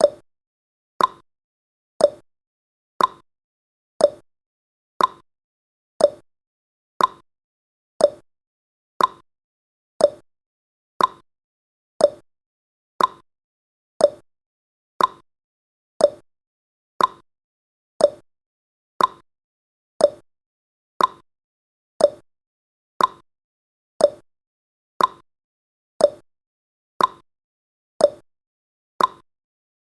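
Clock-tick sound effect of a countdown timer: a short sharp tick once a second, steady and even.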